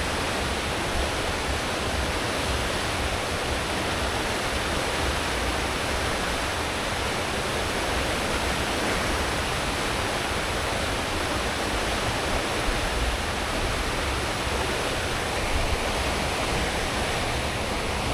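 Cruise ship's wake churning behind the stern under way at full speed: a steady rush of water over a deep, constant rumble from the engines and propellers.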